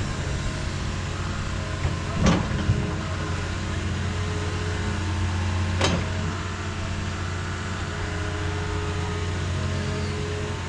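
Heavy-equipment engine running steadily. Two sharp metallic clanks come through, a couple of seconds in and again about six seconds in.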